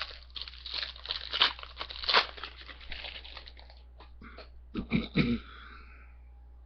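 Foil wrapper of a trading-card pack crinkling and tearing as it is ripped open, a dense crackle for about three seconds, followed by a few short rustles.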